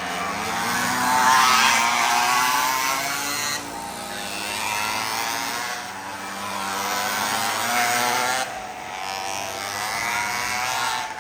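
Several 49cc mini bike engines running at high revs as they pass, the pitch of their whine rising and falling. The sound is loudest about a second in and swells again around eight seconds in.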